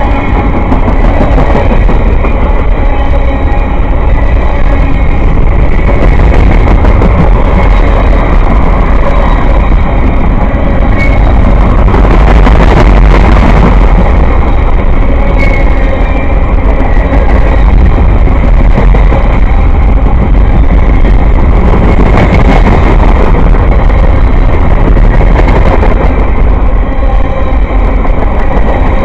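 A train passing close by, loud and steady.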